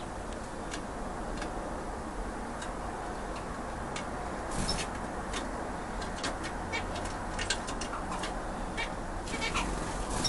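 Caged birds moving about in an aviary: scattered short clicks and a few faint brief chirps over a steady hiss, growing busier in the second half.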